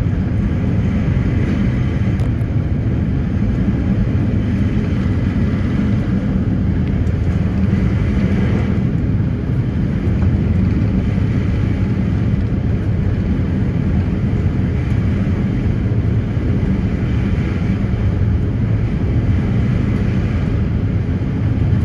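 A passenger ferry's engines running steadily: a constant low drone with no break or change in speed.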